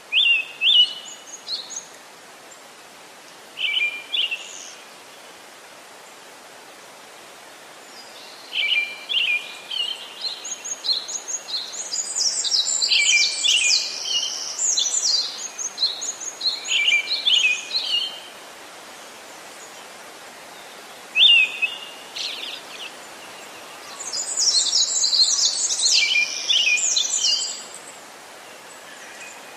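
Songbirds chirping and singing in bouts over a steady hiss: a few calls at the start, a long busy stretch in the middle, a single call, then another burst near the end.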